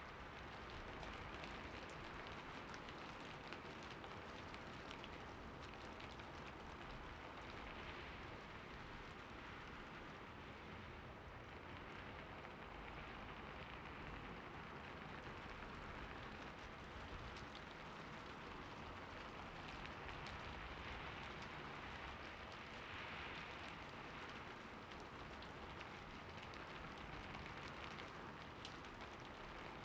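Steady rainfall, a continuous even patter of many drops striking a surface.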